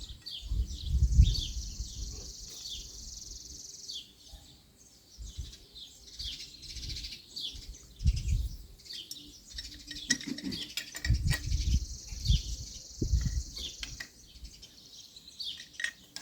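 Small birds chirping over and over in short, falling notes, with a few low rumbling thumps between them, the loudest about a second in.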